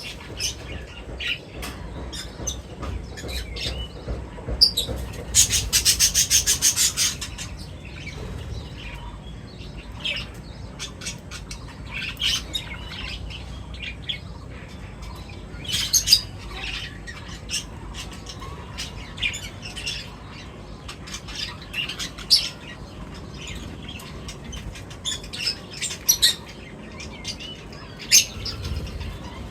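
Several birds chirping and squawking in short, high calls. About five seconds in, one bird gives a rapid, rattling run of notes lasting about two seconds, the loudest sound.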